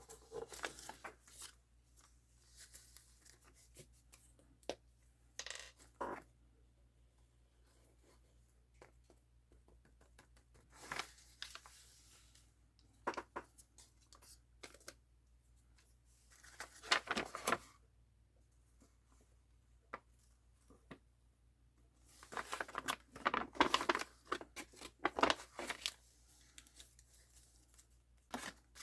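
Craft materials being torn and handled in short, scattered rasps with quiet gaps between them, then a busier stretch of tearing and rustling near the end.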